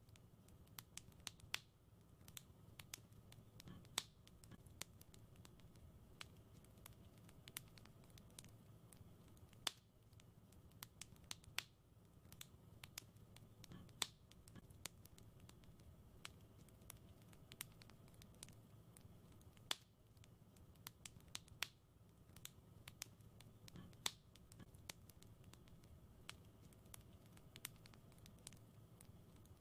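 Fireplace wood fire crackling: irregular sharp snaps and pops over a soft, steady low rumble, with a louder pop every few seconds.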